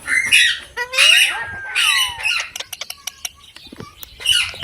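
A parrot squawking harshly four times, with rising and falling whistled calls between the squawks and a quick run of short clicks in the middle.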